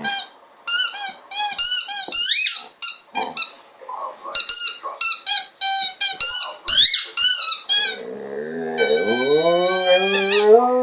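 Golden retriever whining in a run of short, high, squeaky whines. Near the end comes one long, lower, moo-like moan that rises in pitch, the cow-like sound the dog makes while playing with a ball.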